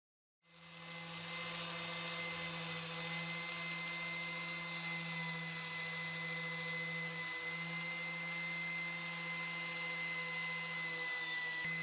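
A small electric power tool motor running at a steady speed, a constant hum with a thin high whine over a hiss; it fades in just after the start.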